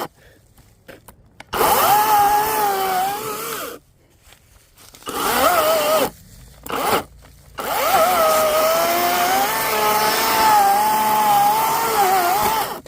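Ego CS1611 battery-powered chainsaw run in four bursts on the trigger, cutting into a stump: two shorter runs, a brief blip, then one long run of about five seconds. Its electric motor whine wavers and dips in pitch as the chain is loaded in the wood.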